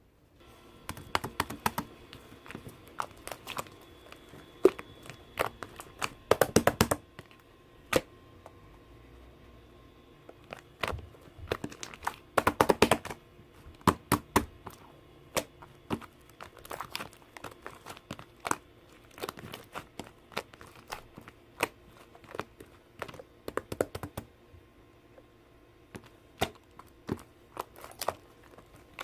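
Slime being squeezed and pressed by hand, giving sharp clicking and popping sounds as trapped air bursts, with quick runs of clicks about six and twelve seconds in.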